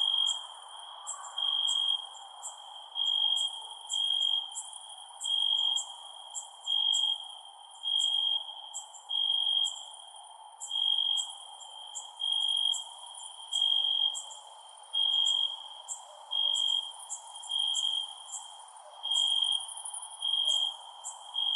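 Crickets chirping at night in a steady, even rhythm: a high-pitched chirp about half a second long, roughly one every second and a half, over a background of faster, higher ticking and a steady hiss.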